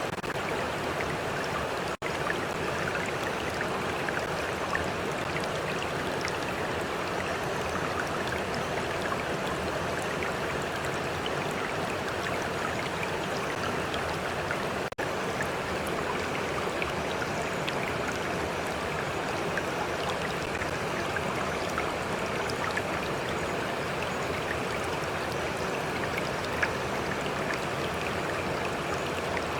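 A stream running steadily, an even rushing and lapping of water. The sound cuts out for an instant twice, about two seconds in and about halfway through.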